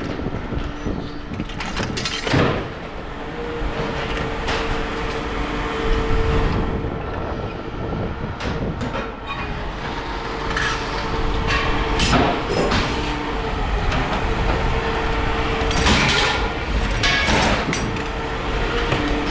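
Scrap metal clanking and rattling as pieces are handled and dropped, with repeated sharp knocks over a steady engine hum and rumble.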